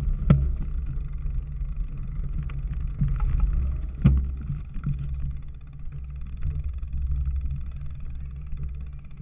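Wind buffeting the microphone of a camera riding on a cyclocross bike, a steady low rumble, with sharp knocks and rattles from the bike over rough ground, the loudest about four seconds in.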